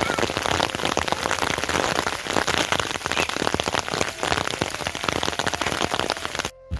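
Heavy rain falling, a dense hiss made of countless fine drop strikes, which cuts off suddenly near the end.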